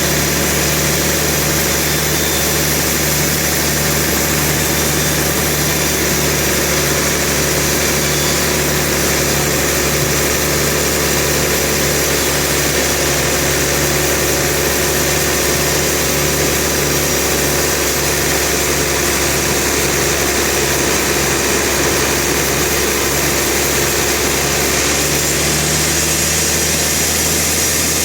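Sawmill machinery running steadily, a continuous engine-like drone with no pauses or changes.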